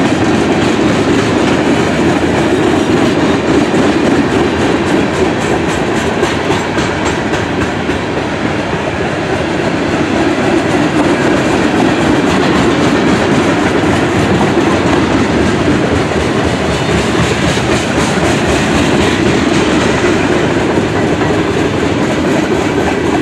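Freight train cars rolling steadily past, with wheels clicking and clacking over the rails above a continuous rumble. Tank cars and centerbeam flatcars loaded with lumber are passing.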